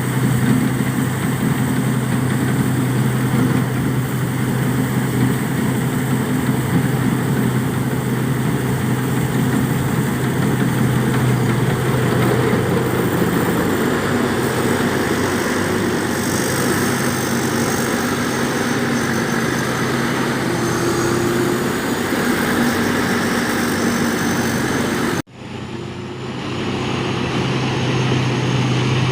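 A motor running steadily with a constant low hum under a strong rush of air, broken by a sudden cut about 25 seconds in before the hum resumes.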